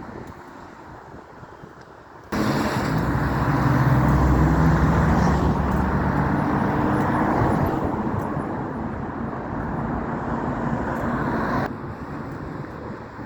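Road traffic: a motor vehicle's engine and tyre noise, loud for about nine seconds. It comes in abruptly about two seconds in and drops off abruptly near the end.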